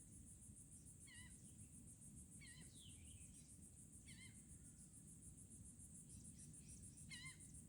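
Faint woodland background: insects trilling steadily, a high, rapid pulsing with no break. A few short warbling bird calls come through, about a second apart at first and then more spread out.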